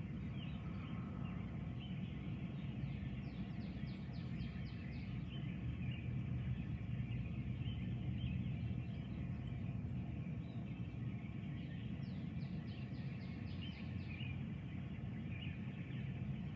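Birds calling over a steady low rumble, with two rapid rattling trills about two seconds long, one a few seconds in and one about twelve seconds in, and scattered short chirps between them.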